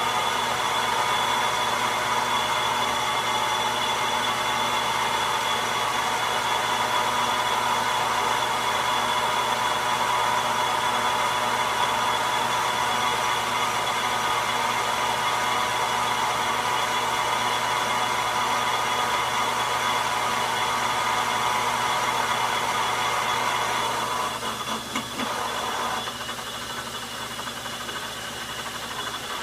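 Logan metal lathe running steadily while taking a turning cut on the outside diameter of a nut blank. About 24 seconds in the sound drops, with a few brief clicks, and the lathe keeps running more quietly.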